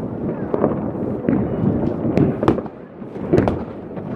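Fireworks going off in a close, irregular series of bangs and crackles, the loudest about two and a half and three and a half seconds in.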